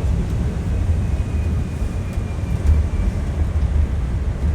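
Steady low rumble of a moving vehicle, with a faint thin high tone in the middle.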